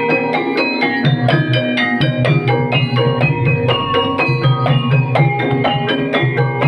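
Banyumasan ebeg accompaniment music: an ensemble of struck pitched percussion playing rapid, interlocking notes over drums and a steady low tone, at a lively, even pace.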